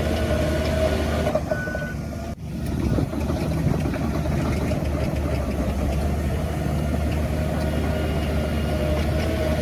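Diesel engines of heavy earthmoving machinery running steadily, with a short dropout about two and a half seconds in.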